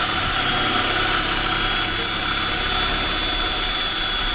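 Electric drill running steadily under load with a constant high motor whine, drilling out a spot weld in car body steel.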